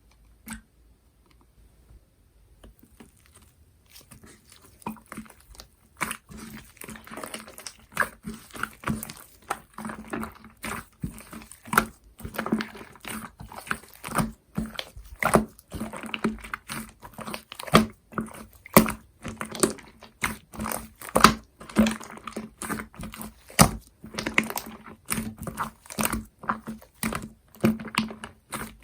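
Orange cream slime being squished and poked by hand, making wet squelches and sharp sticky clicks several times a second. It is faint at first and becomes busy and steady after about three seconds.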